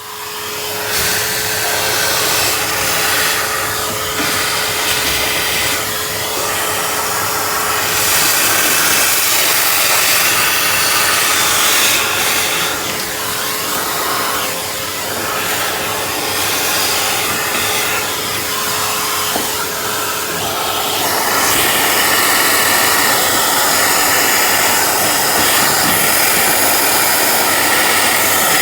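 Vacuum cleaner running, sucking standing water out of a refrigerator's drain pan; its sound changes about twenty seconds in as a steady hum note drops out.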